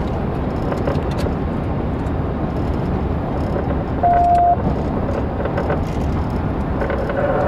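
Steady road and engine noise inside a moving car, a dense low rumble with hiss. About four seconds in, a loud single-pitched beep sounds for about half a second.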